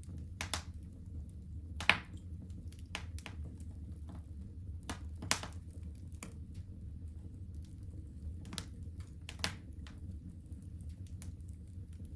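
Wood fire crackling in a fireplace: irregular sharp pops and snaps, the loudest about two and five seconds in, over a steady low rumble.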